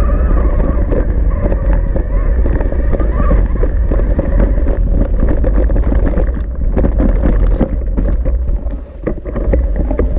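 Riding an e-bike over rough ground: heavy wind buffeting on the microphone, constant rattles and knocks from the bike, and a steady whine underneath. It eases off briefly near the end.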